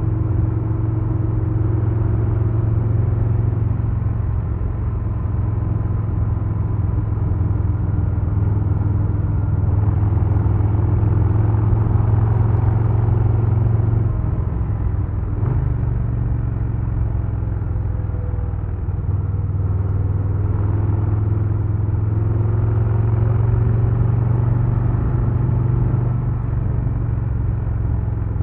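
2022 Harley-Davidson Low Rider S's Milwaukee-Eight 117 V-twin running under way at steady revs, with a brief change in the engine note about halfway through.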